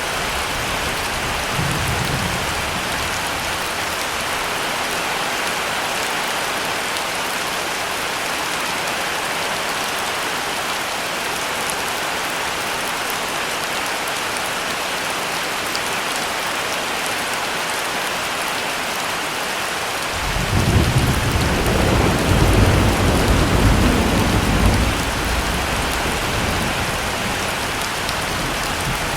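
Heavy rain falling steadily, with a low roll of thunder that breaks in about two-thirds of the way through, rumbles for several seconds and fades.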